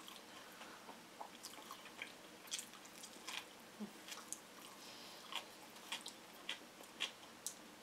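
Close-miked eating sounds: soft chewing and wet mouth smacks as a sandwich and spoonfuls of lemon sorbet are eaten. They come as faint, irregular clicks, one or two a second.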